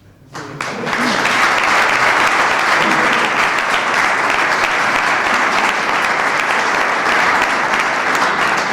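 Audience applauding in a room: a few single claps about half a second in, quickly swelling into steady, loud applause that holds.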